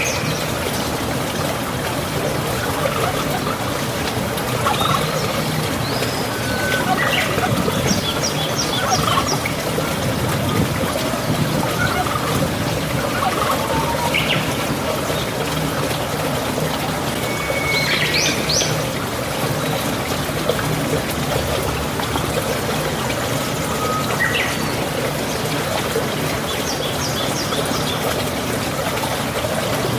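Small birds chirping and trilling every few seconds over a steady rushing background noise.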